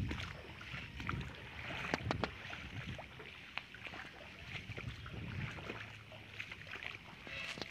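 Rain falling with water splashing, scattered sharp drip and splash clicks through it, over a low rumble of wind on the microphone.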